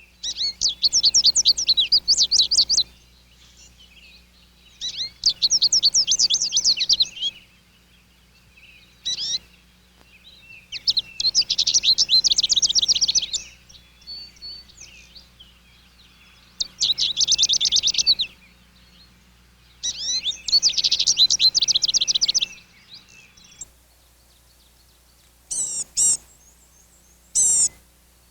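A songbird singing a fast trill of rapid, repeated down-slurred notes, each trill lasting about two seconds and repeated every four to five seconds. Near the end a different, higher-pitched bird gives a few short, separate notes.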